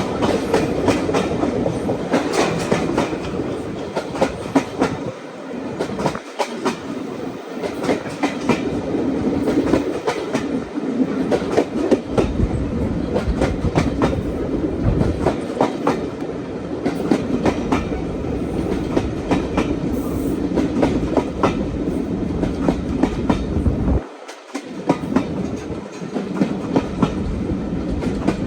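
A train running along the line: a steady rumble of railway carriages, with the wheels clicking repeatedly over rail joints.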